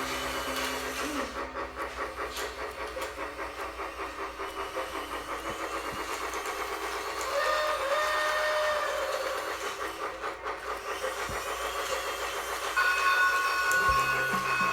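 Toy Mickey Mouse express train running, its electronic chugging steam-engine sound steady throughout. Whistle-like tones sound about halfway through and again near the end.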